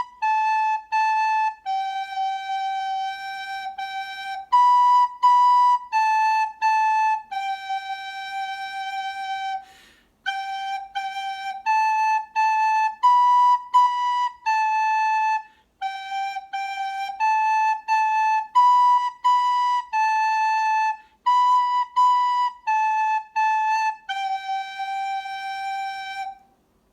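Recorder playing a simple three-note beginner tune on B, A and G: short separately tongued notes stepping down from B through A to G, with phrases ending on a longer held G and two short pauses about ten and fifteen seconds in.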